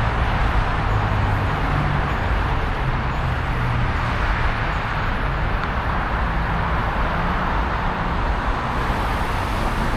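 Steady, noisy city road traffic, with a low engine hum near the start and again about six to eight seconds in.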